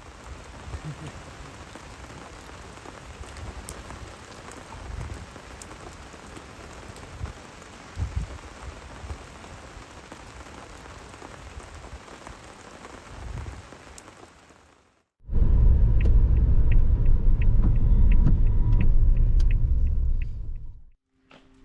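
Steady rain falling, a fine even patter with a few low thumps. About fifteen seconds in it cuts to a much louder low rumble that runs for about six seconds and stops shortly before the end.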